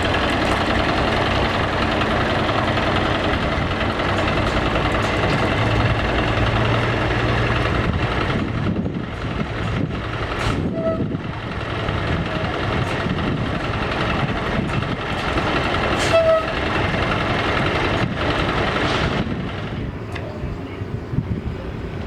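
Heavy diesel trucks running, a continuous dense engine noise that eases slightly near the end.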